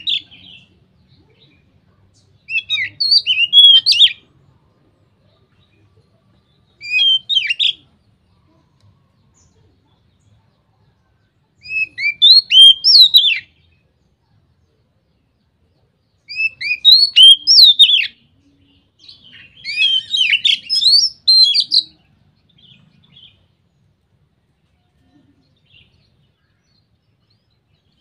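Oriental magpie-robin (kacer) singing in loud, open full song (ngeplong). It gives short phrases of quick rising and falling whistled notes, about six of them, with pauses of a few seconds between.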